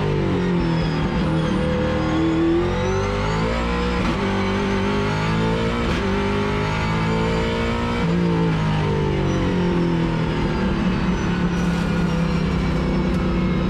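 Ford XE Falcon race car's engine heard from inside its stripped cabin at racing speed, the note climbing under acceleration and dropping away several times as the car brakes and turns through the short track's corners.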